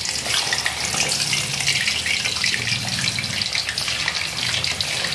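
Pieces of white tofu sizzling and crackling steadily in hot oil in an aluminium wok as they are slipped in one at a time for a first, half-way frying.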